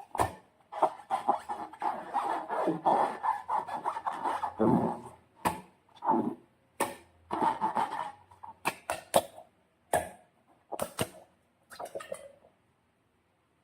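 Slime being worked by hand: sticky squishing and rubbing broken by many sharp clicking snaps, stopping shortly before the end.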